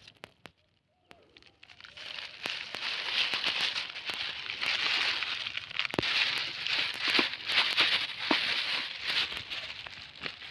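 Plastic rubbish crinkling and rustling as it is handled, starting about two seconds in, with many small sharp crackles.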